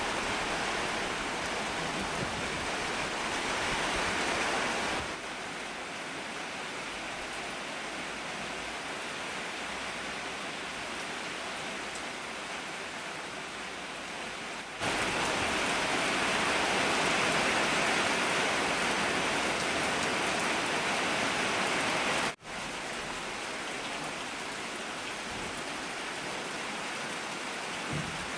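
Heavy rain pouring down in a steady hiss. Its loudness jumps up and down abruptly a few times, with one brief dropout a little after the middle.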